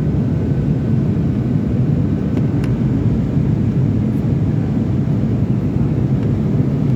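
Airliner cabin noise heard from a window seat during landing: a steady low rumble of engines and airflow, with a couple of faint ticks a little over two seconds in.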